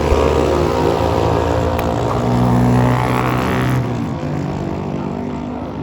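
Drag-racing motorcycle engines running loud, building and brightening for a couple of seconds before the sound drops off abruptly about four seconds in.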